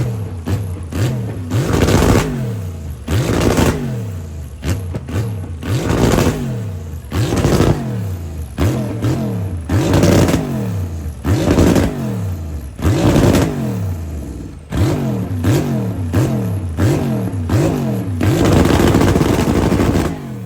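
Aston Martin Vantage GTE race car's turbocharged V8 revved again and again in short blips, the pitch jumping up and falling away each time. Near the end the revs are held for about two seconds, running against the rev limiter.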